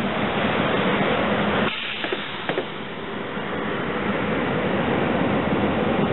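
SEPTA Silverliner IV electric train rolling away past the track-side, a steady rushing noise of wheels on rail that dips briefly about two seconds in, with a faint click of a wheel over a rail joint.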